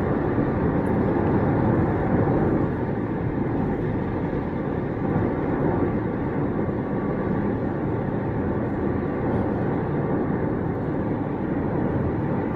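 Steady road noise inside a moving car on a highway: tyres on the pavement and the engine's low hum, slightly louder for the first couple of seconds.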